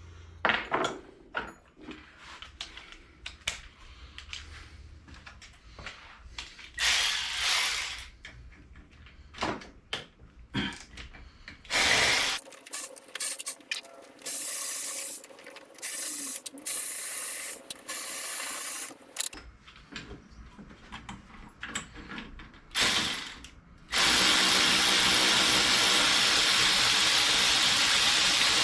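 Metal hand tools and engine parts clicking and clattering in short bursts, then a steady loud hiss starts suddenly near the end and keeps going.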